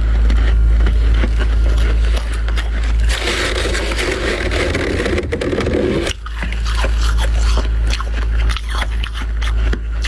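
Crunchy freezer frost being bitten and chewed close up, a rapid run of crisp crunches, with a denser stretch of frost being scraped by hand from about three to six seconds in. A steady low hum lies underneath.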